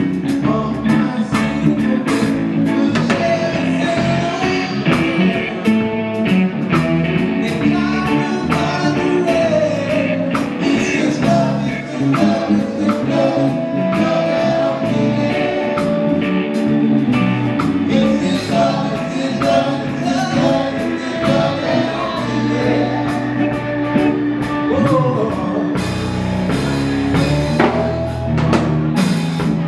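Band music with singing, guitar and drums, in a blues-rock style.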